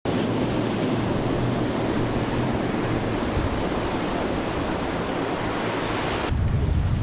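Steady rushing of wind and sea, with wind buffeting the microphone and a low hum underneath. About six seconds in, the hiss falls away and a deeper rumble takes over.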